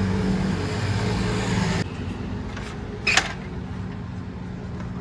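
A motor vehicle engine hums steadily, with a loud rushing noise over it that cuts off abruptly about two seconds in. A little after three seconds there is a single short, sharp clatter.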